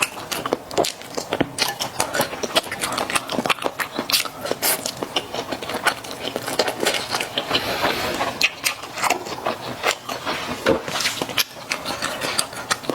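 Close-miked eating sounds: chewing mala xiang guo with Chinese glass noodles, a dense, steady stream of small clicks.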